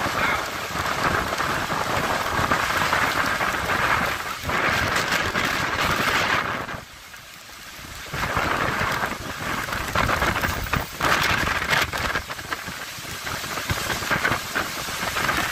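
Storm noise of strong wind and heavy rain, a dense steady hiss that drops away briefly about seven seconds in.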